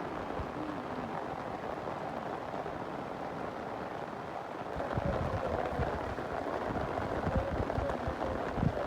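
Steady rain falling, with irregular low thumps joining in about halfway through.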